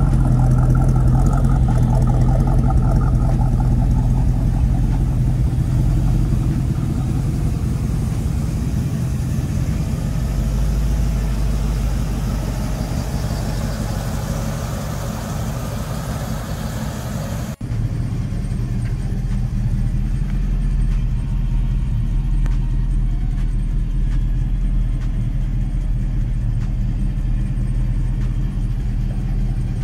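A Chevrolet 350 small-block V8 in a 1948 Chevrolet Fleetline idling steadily. A little over halfway through the sound breaks off abruptly and resumes, heard from inside the car's cabin, where it is duller.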